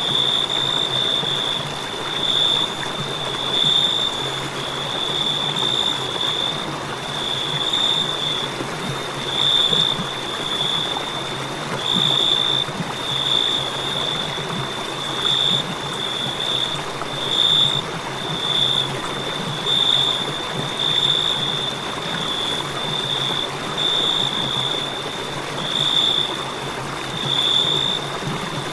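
Crickets chirring in a steady high trill that swells and fades about once or twice a second, over a continuous rushing hiss.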